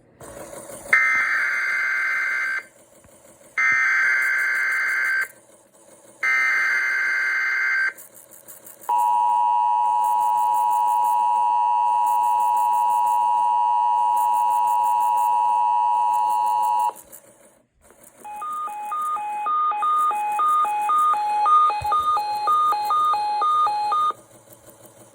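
Emergency Alert System relay tones. It opens with three short screechy bursts of SAME data header. Next the steady two-tone attention signal holds for about eight seconds. After a brief gap, a beeping tone switches rapidly back and forth between two pitches for about six seconds.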